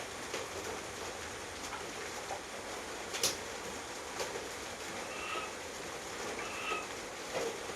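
Steady night rain with scattered drops ticking sharply on a surface, one louder about three seconds in. From about five seconds in, a short two-tone animal call repeats every second and a half.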